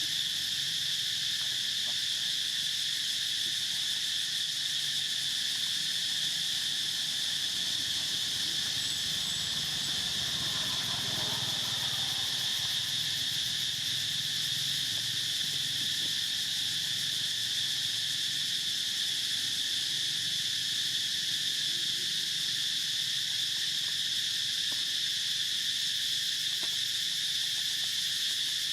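A steady insect chorus: one continuous high-pitched drone, with a weaker, lower band beneath it, holding at an even level.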